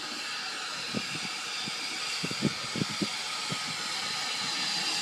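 Steam locomotive hissing steadily, with a handful of short, soft knocks between about one and three and a half seconds in.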